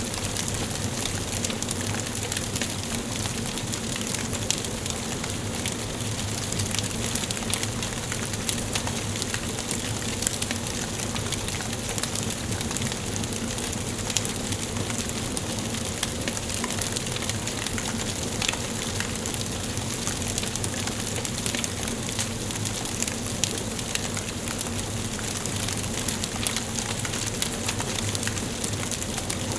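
Wood fire burning in a fireplace: a steady hiss with constant small crackles and a few sharper pops.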